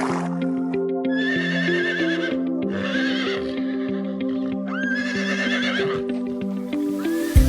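A horse neighing three times, each whinny a wavering high call about a second long, over steady background music.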